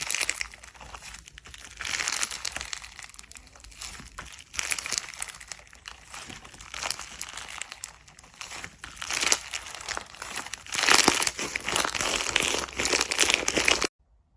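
Slime being squeezed and pressed by hand, making dense crackling, crinkling sounds that come in repeated swells. It cuts off abruptly near the end.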